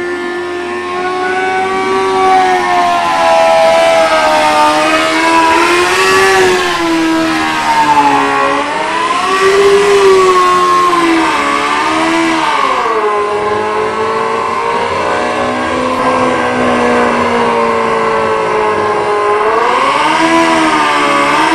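Honda CBR600 inline-four motorcycle engine in a go-kart, running at a steady idle and then blipped up and down in several short revs, with the pitch rising and falling each time.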